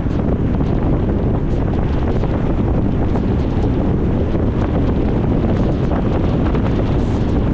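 Wind buffeting the microphone: a loud, steady rumbling rush with no let-up.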